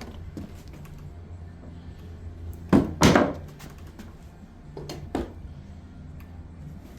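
A sharp wooden knock followed by a short scraping clatter about three seconds in, then two lighter knocks a couple of seconds later, over a steady low hum. These are typical of boards being handled and set in place on a subfloor patch.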